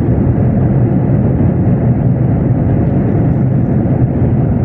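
Airbus A320 airliner noise heard from inside the cabin: a loud, steady rumble of engines and rushing air with no change in pitch.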